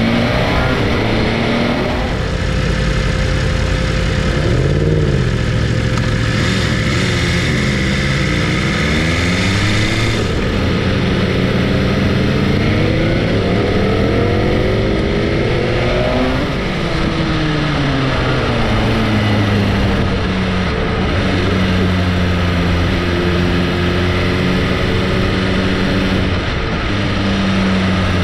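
Sport motorcycle's inline-four engine under way, its pitch rising and falling several times with throttle and gear changes, then holding steady near the end, over road and wind noise.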